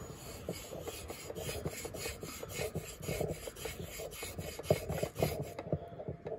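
Leatherman PST knife blade being stroked back and forth across a sharpening stone, a rapid run of gritty scraping strokes at about three a second that stop shortly before the end.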